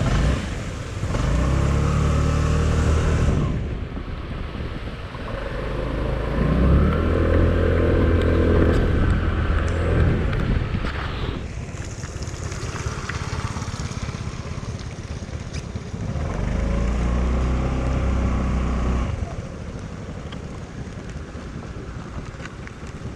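Motorcycle engine pulling hard three times, its pitch rising as it accelerates, with wind rushing in the gaps between.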